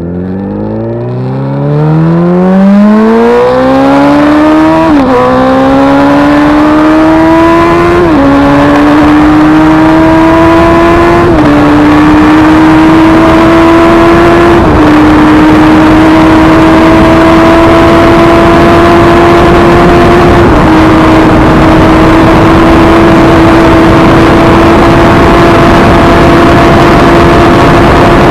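Superbike engine accelerating hard through the gears, its pitch climbing and then dropping sharply at each of five upshifts. Each gear climbs more slowly than the one before, ending in a long, nearly steady high note in top gear.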